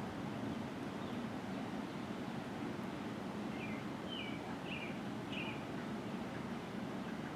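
A bird at the feeder gives a quick series of about five short chirps a little past the middle, over a steady low background rumble.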